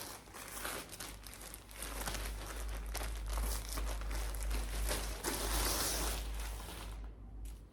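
Packaging crinkling and rustling continuously for about seven seconds as clothes are unwrapped, then dying down near the end.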